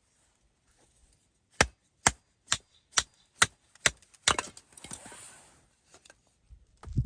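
A run of seven sharp chopping blows, evenly spaced at about two a second, followed by a brief scraping, rustling noise and a dull thump near the end.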